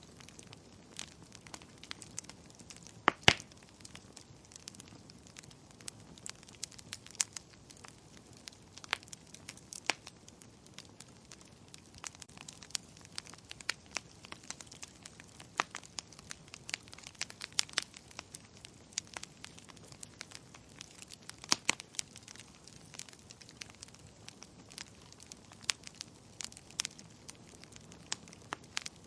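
Wood fire crackling in a fireplace: irregular sharp pops and snaps over a faint hiss, with two louder pops, one about three seconds in and one past the middle.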